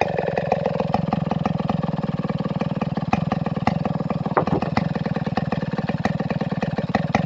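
Large two-stroke 070/707 chainsaw engine idling steadily, with an even, rapid firing pulse.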